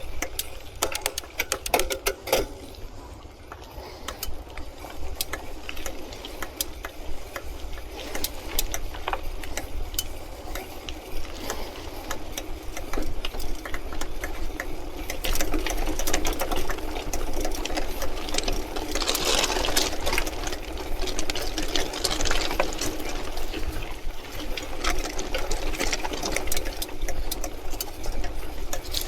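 Mountain bike ridden over a gravel path: tyres crunching and the frame and parts rattling, with many sharp clicks and a steady low rumble of vibration. The rolling noise grows louder for a stretch about two-thirds of the way in.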